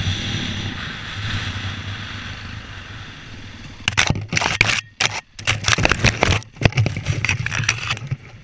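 Dirt bike engine running steadily. From about four seconds in, irregular scraping and crackling noises rub across the microphone, cutting out briefly twice.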